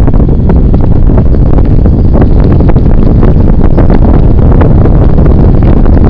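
Heavy wind buffeting on the microphone of a camera carried on a moving bicycle, with many small knocks and rattles running through it.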